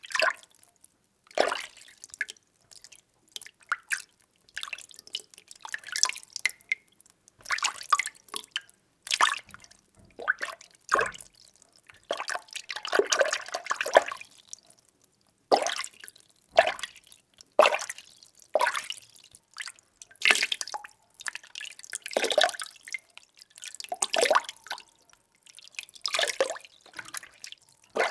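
Water being stirred, a short swishing splash about once a second, with a longer continuous churning stretch around the middle.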